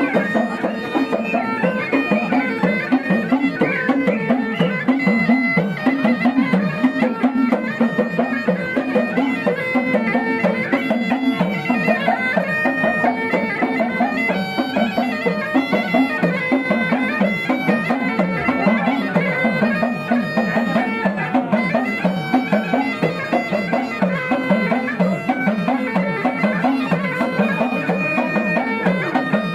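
Kumaoni folk music: a reedy melody over a steady held drone, with a regular pulsing beat.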